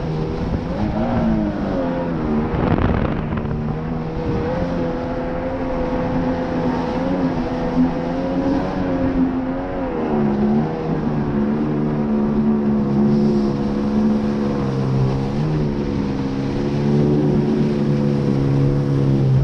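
Jet ski engine running at speed, its pitch dipping and climbing back several times as the throttle eases and opens. There is a brief rush of noise about three seconds in.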